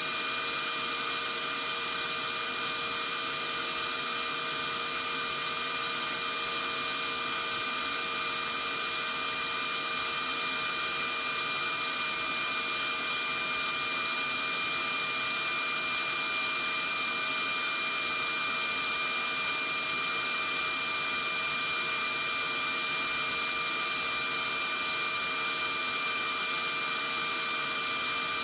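Vacuum cleaner running steadily: an even motor hiss with a constant high whine, unchanging throughout.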